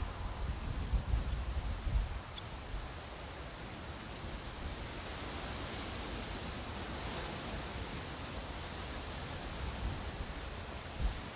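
Steady wind outdoors with a rustle of leaves. Low gusts buffet the microphone during the first two seconds and once more shortly before the end.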